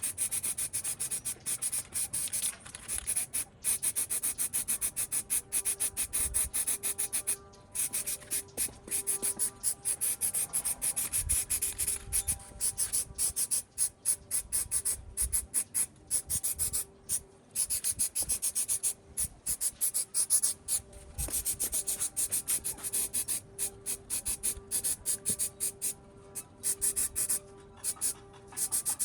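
Abrasive rubbing on a rusty part in quick, even back-and-forth strokes, like hand sanding, with several short pauses.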